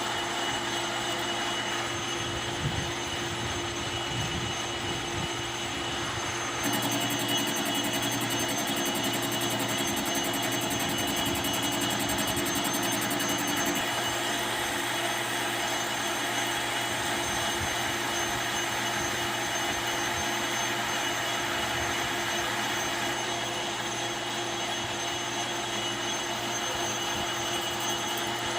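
Lathe running with a steady mechanical hum. It gets louder and rougher from about seven to fourteen seconds in.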